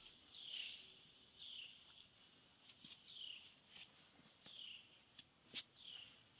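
Faint bird calls over near silence: about five short, falling chirps spaced a second or so apart, with a few faint clicks between them.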